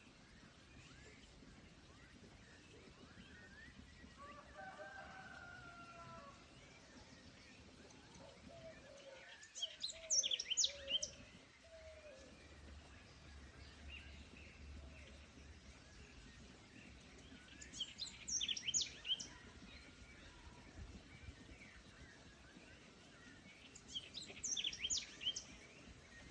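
Forest birdsong: a songbird repeats a short, fast, bright chirping phrase three times, about seven seconds apart, over a faint steady forest background. Lower, drawn-out bird calls sound earlier, one near the start and a wavering one just before the first phrase.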